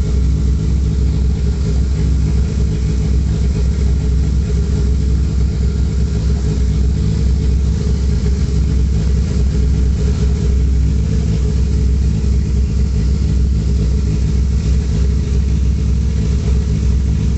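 Turbocharged Honda B18 four-cylinder (B18A1 block with GSR head) idling steadily on E85 on its first startup, not yet tuned.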